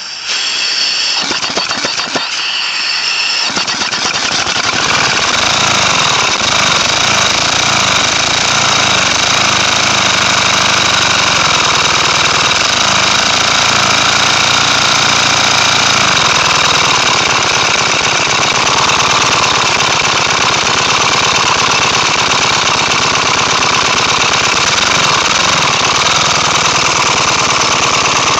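Homemade compressed-air engine, a four-stroke converted to two-stroke, running fast with its exhaust port open, the air blasting out of the port in a loud, rapid chatter. It builds up over the first three seconds or so, then runs steadily.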